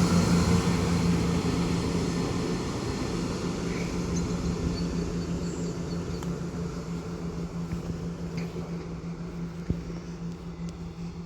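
Class 170 Turbostar diesel multiple unit pulling out of the station, its engine drone fading steadily as it draws away.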